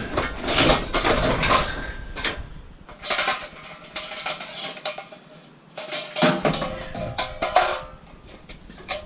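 Pieces of scrap steel clanking and knocking together as they are handled, a run of sharp metallic knocks, some left ringing.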